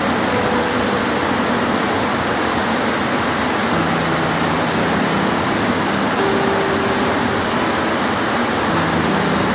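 Steady, heavy rain as a continuous even hiss, with a few faint, brief low tones in the background now and then.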